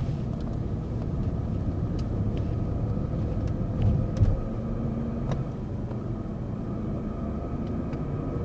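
Inside the cabin of a BMW 740 driving at about 40 km/h: steady low road rumble with a drone from underneath the car, a noise the mechanic says is not normal and thinks sounds like the differential. Two brief thumps about four seconds in.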